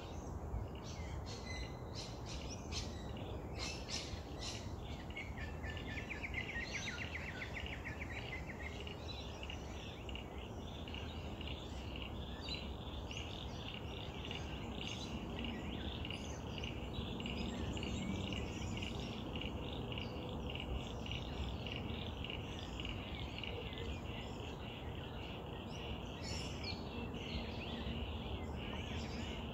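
Small bush birds chirping and calling, with a trill about six seconds in. A steady, rapidly pulsing high chorus runs through the middle, over a constant low outdoor rumble.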